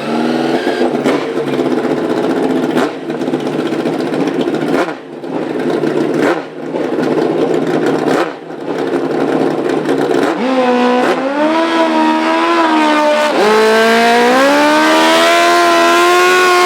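Pro Nitrous drag-racing motorcycle engine revving hard with brief dips, then accelerating down the strip. Its pitch climbs, drops at a gear change and climbs again, twice, and it is loudest near the end.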